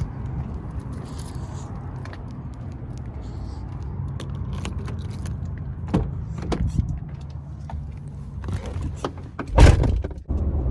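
Pickup truck engine running with a steady low rumble, with scattered clicks and rattles and one loud thump near the end.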